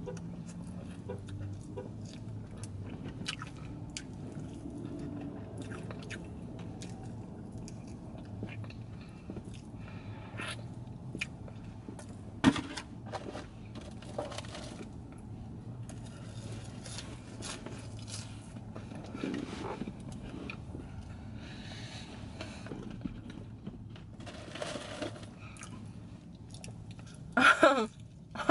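Close-up chewing and crunching of crispy fried chicken wings, with many small irregular mouth clicks over a low steady hum. There is a sharp knock about twelve seconds in, and a brief, louder pitched sound near the end.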